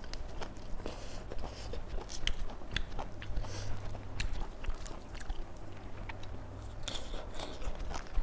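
A person biting and chewing crisp raw vegetables close to the microphone, with many short, sharp crunches scattered through.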